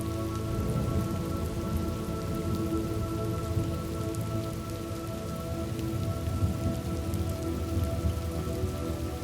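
Steady heavy rain with a low rumble of thunderstorm, over a soft drone of several held tones.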